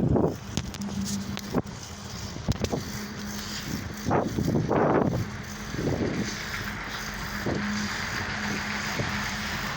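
Wind buffeting the microphone in gusts during a bicycle ride, over a steady hum of road traffic and a few sharp clicks.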